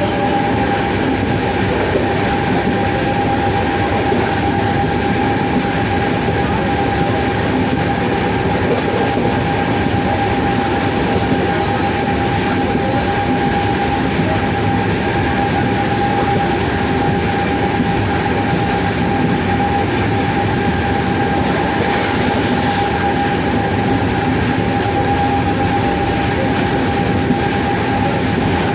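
WAP-7 25 kV AC electric locomotive's traction motors running at steady speed: a constant whine over the even rumble of the moving train.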